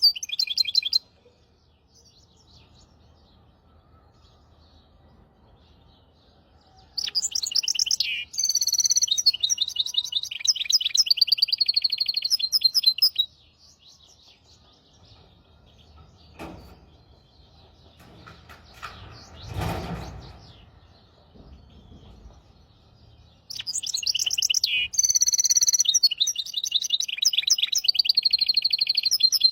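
A hybrid songbird singing loud phrases of fast, high repeated notes and trills, broken by pauses: a short phrase at the start, a long one about seven seconds in, and another beginning near the end. In the long middle pause there is a fainter low rumble, loudest about twenty seconds in.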